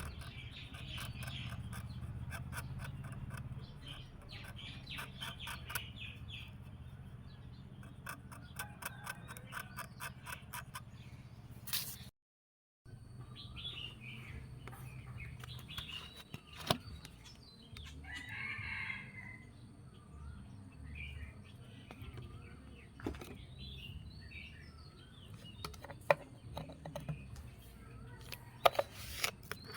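Domestic chickens clucking, with a rooster, over a steady low hum, broken by a fast run of even ticks, scattered sharp knocks and a brief dropout about twelve seconds in.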